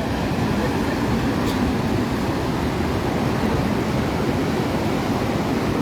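Steady low rumbling noise of wind buffeting the microphone, mixed with the wash of surf.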